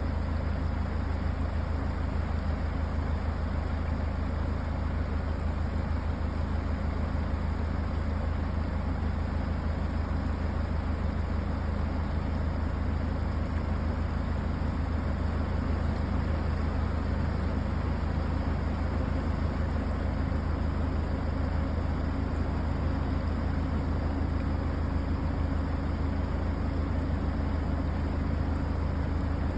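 Smoothly flowing river water making a steady, low rushing noise that does not change.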